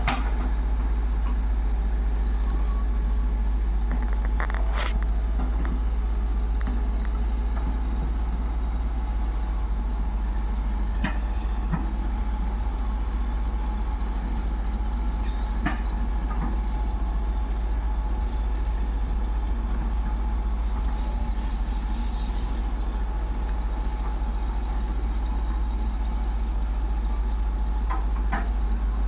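Heavy diesel engines of a backhoe loader and tractors running steadily, a continuous low rumble, with a few sharp knocks now and then.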